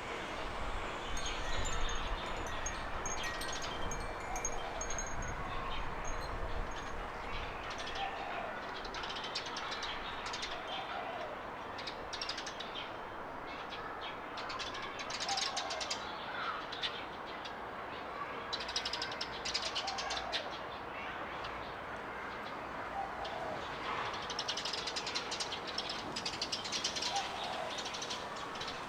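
Garden birds chirping and trilling, with several birds calling over one another and bursts of rapid high notes. A lower short call repeats every two or three seconds beneath them.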